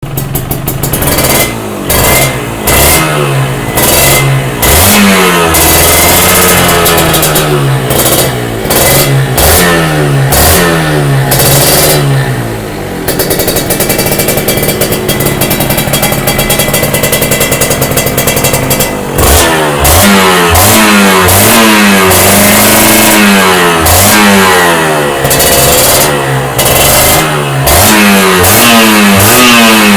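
Kawasaki Ninja R two-stroke single-cylinder motorcycle engine revving through an aftermarket S.I.R exhaust silencer. The throttle is blipped over and over, each rev rising and falling quickly. From about 13 to 19 seconds in the engine holds steady revs, then the quick blips start again.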